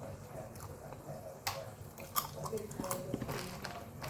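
Close-up chewing of popcorn, with several sharp crunches at irregular moments through the middle and latter part.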